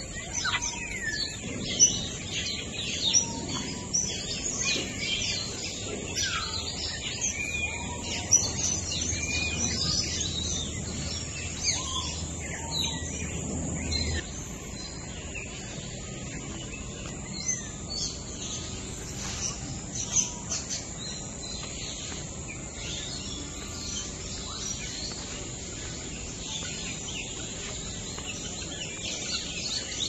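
Many birds chirping and calling at once, a dense run of short, quick calls that goes on throughout. A low steady rumble sits beneath the first half and cuts off suddenly about halfway through.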